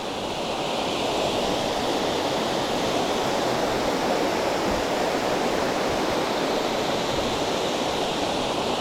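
Waterfall rushing steadily, a constant noise of falling water.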